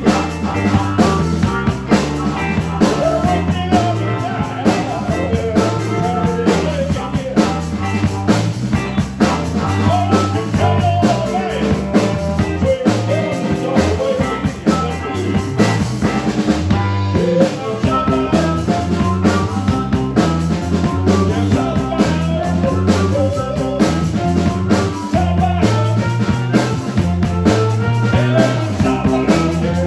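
Rock band playing live, the drum kit keeping a steady beat under the other instruments.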